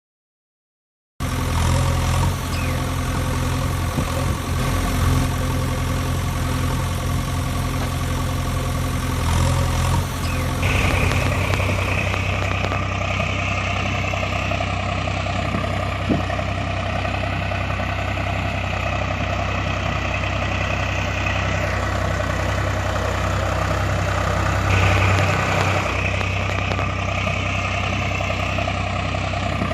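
Tractor engine running steadily. It starts abruptly about a second in, and its tone shifts about ten seconds in.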